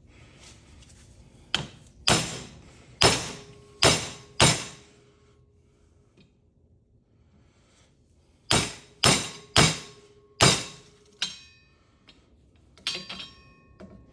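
Hammer blows on a metal ceiling fan part, trying to knock a stuck piece loose: a run of about five strikes, a pause, then four more, each with a short metallic ring, followed by a few lighter clinks near the end.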